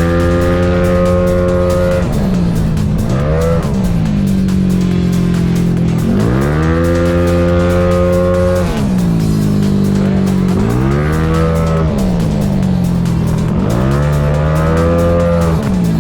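Tuned 237cc Yamaha Gryphus engine in a Cygnus race scooter being revved repeatedly: the pitch sweeps up and is held for a couple of seconds before dropping back, twice, with shorter quick blips of the throttle in between and another rev near the end.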